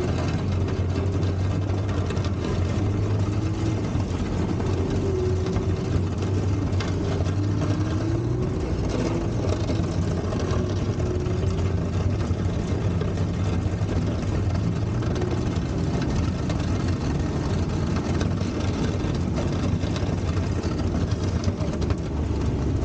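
Vintage baggage tractor's Volvo four-cylinder petrol engine running steadily, with a faint wavering whine over the middle part.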